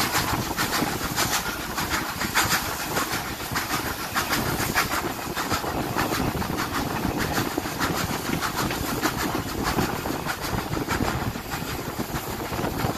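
A train running along the track, heard from on board: a steady rumble and rattle with many irregular sharp clicks from the wheels over the rails.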